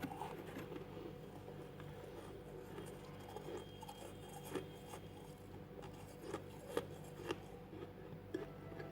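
Freezer frost being chewed: soft, faint crunching, with a few sharper crunches in the second half.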